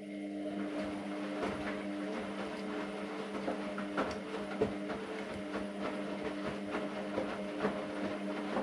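AEG Lavamat Turbo washer-dryer running in a burst of about ten seconds: a steady hum with irregular clicks and knocks over it, starting and cutting off abruptly.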